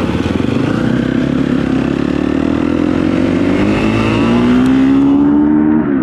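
KTM 250 SX-F four-stroke single-cylinder dirt bike engine running under throttle. Its pitch climbs steadily through the middle and holds high near the end.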